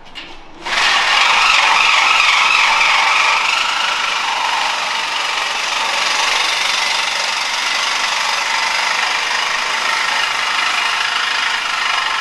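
A power tool starts up suddenly and runs steadily, cutting through the steel exhaust pipe to take off the muffler.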